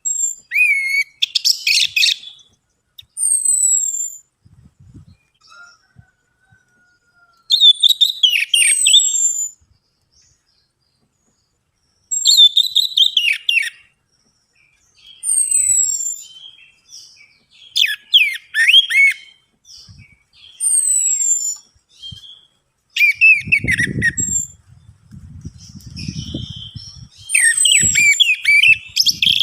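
Orange-headed thrush (anis merah) singing in short bursts of rapid whistles, high down-slurred notes and chattering, several phrases with pauses between them. A low rumbling noise runs for a few seconds near the end.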